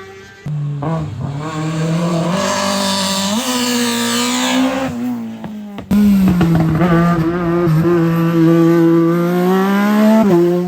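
Competition car engines at high revs, accelerating hard through the gears: one car whose engine pitch climbs in steps, then a sudden switch near six seconds to another car held at high revs, its pitch dropping sharply just before the end as it comes off the throttle.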